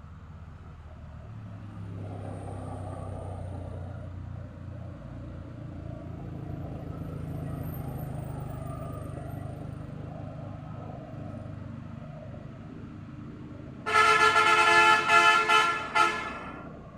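A truck engine running low and steady on a steep climb, then about three seconds from the end a vehicle horn sounds several loud blasts in quick succession.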